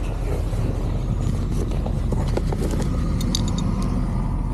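A vehicle engine idling steadily, with metal chain links clinking for about half a second around three seconds in as a tow chain is hooked onto a hitch.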